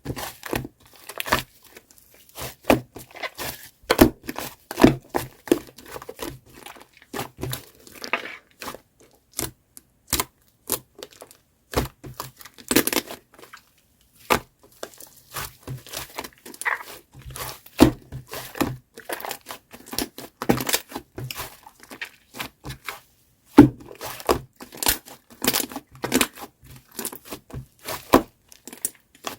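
Shaving-foam slime being squeezed, stretched and poked by hand, giving an irregular run of sticky crackles, clicks and squelches, with brief pauses.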